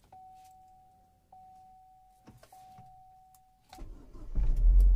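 A dashboard warning chime sounds as a steady tone three times, then the Chevrolet Spin's 1.2-litre petrol engine cranks and fires about four seconds in, running with a loud low rumble. It is a start-up of a car that has sat unused for a long time.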